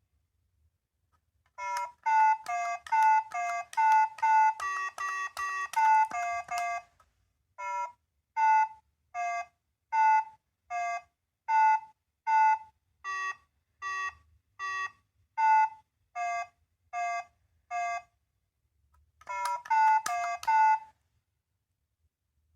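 A small electronic sound capsule toy playing a melody in short, thin electronic beep-tones from its tiny speaker. First comes a quick run of notes, then a slower series of evenly spaced single notes, then another quick run about twenty seconds in.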